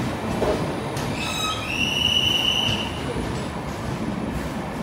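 LHB passenger coaches rolling slowly into the platform, a steady rumble with a high metallic squeal from the wheels and brakes as the train slows, starting about a second in and lasting about a second and a half.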